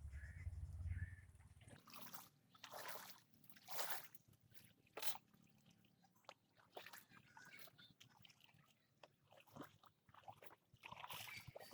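Water sloshing and trickling beneath a PVC pipe kayak's pontoons, in irregular faint splashes. A low rumble is heard in the first two seconds.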